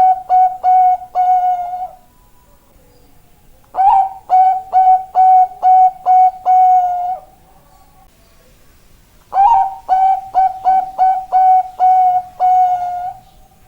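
Bangkok-strain zebra dove (perkutut) cooing: repeated phrases of quick, clipped coos, each ending on a longer held note. One phrase ends about 2 seconds in, and two more full phrases follow after short pauses.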